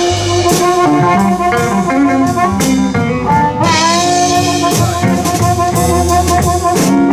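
Live electric blues band playing an instrumental fill between vocal lines: long held, bending notes, most likely from a blues harmonica, over electric guitar, bass and drum kit.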